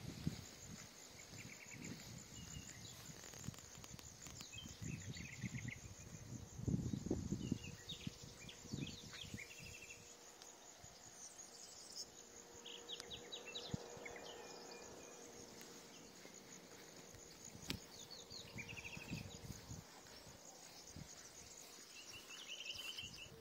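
Insects, likely crickets, trill steadily in a high, fine pulse. Birds chirp in short series now and then, and low rumbles come and go, loudest about seven seconds in.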